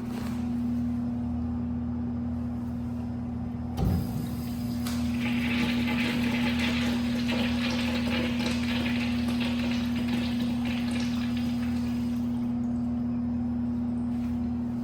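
American Standard Priolo rear-outlet toilet flushed: a sharp knock of the flush valve handle about four seconds in, then rushing water for about seven seconds that tapers off. A steady hum runs underneath throughout.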